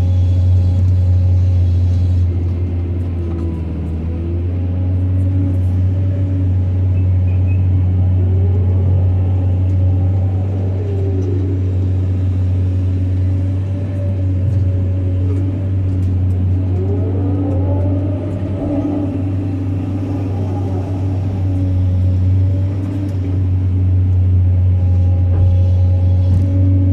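Diesel engine of heavy Caterpillar earthmoving machinery running steadily under work: a deep, even hum, with two whines that rise and fall in pitch, about a third and two thirds of the way through.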